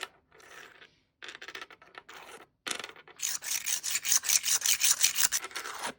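Rubbing and scraping strokes: a few short scrapes in the first half, then a fast, rhythmic run of about six strokes a second from about three seconds in that stops just before the end.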